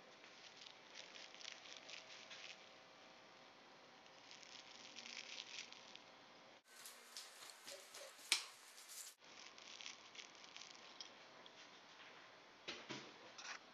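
Faint patter and light clicks of a cat playing fetch on a hard kitchen floor, with one sharper click about eight seconds in.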